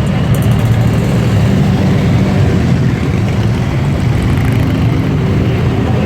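Motorcycle engine running loud and steady with a deep, low rumble.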